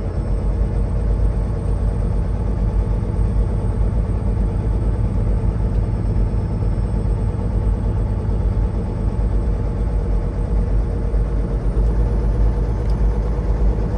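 Semi truck driving: steady diesel engine and road rumble, with a thin high whine above it that rises a little near the end.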